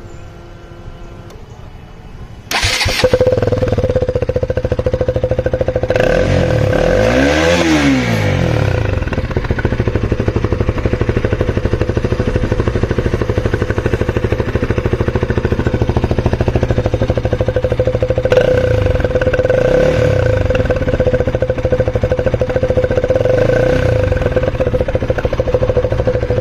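Bajaj Pulsar NS200's single-cylinder engine, with a cheap aftermarket Akrapovic-style exhaust, starting about two and a half seconds in and then idling. It is revved once up and back down a few seconds later, and given two shorter blips near the end.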